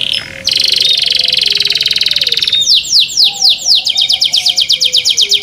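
Domestic canary singing loudly: a fast, buzzing trill of rapidly repeated high notes, then a run of quick downward-sweeping notes that speed up into another rapid trill.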